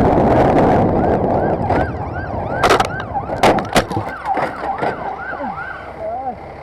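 Emergency vehicle siren in a fast yelp, rising and falling about three times a second, after a loud rushing noise in the first second. Several sharp knocks cut across it around the middle, and the siren drops lower and slows near the end.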